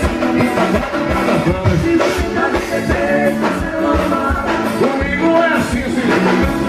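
Live forró band playing with a steady dance beat and a singer over it.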